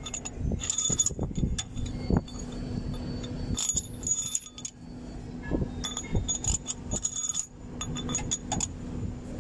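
Steel cylinder head bolts clinking and jingling against each other and the cylinder head as they are picked up and set into their holes, in four or five short bursts of metallic clatter. A steady low hum runs underneath.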